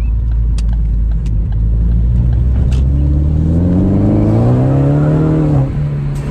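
Ford Focus ST engine heard from inside the cabin, accelerating: its note climbs steadily for about two and a half seconds from about three seconds in, then drops away suddenly and settles back to a steady drone.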